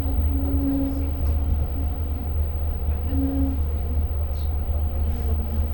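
Steady low rumble inside a Long Island Rail Road passenger car, the train's running and engine noise heard from the seats, with a couple of faint short tones over it.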